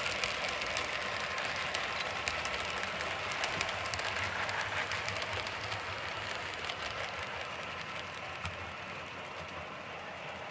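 Model diesel train running on the layout track: a steady rolling rattle dotted with sharp clicks, slowly fading as the train moves away.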